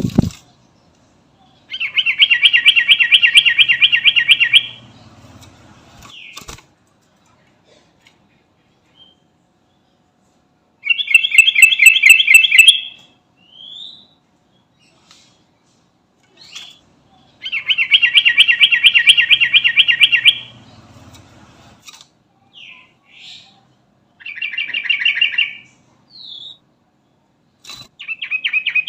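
Yellow-vented bulbul (trucukan) singing in bursts of fast, rattling repeated notes, each one to three seconds long, with short single chirps between them. A sharp knock right at the start.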